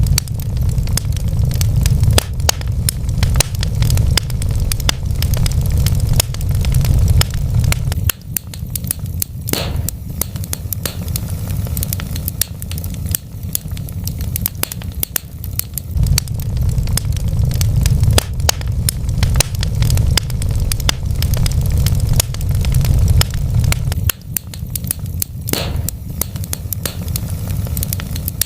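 Wood fire burning in a fireplace: dense, constant crackling and popping of burning logs over a deep rumble, with a couple of louder pops.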